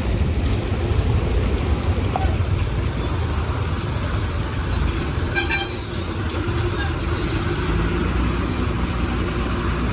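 Heavy truck engine running with a low, steady rumble, and a short horn toot about five and a half seconds in.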